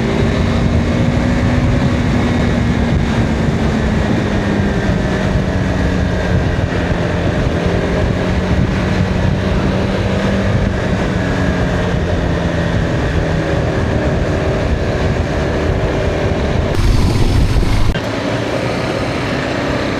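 Motorcycle engine running steadily under way, its pitch slowly falling, with wind rushing over the rider's microphone and a louder rush of wind near the end.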